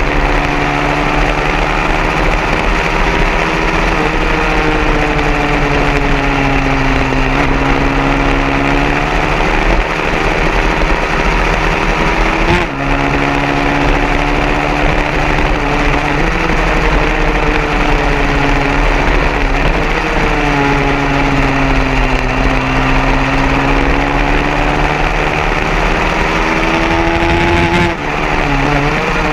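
150cc racing motorcycle engine running hard, its pitch climbing and falling over and over with sudden drops and jumps every few seconds, over a steady lower engine drone.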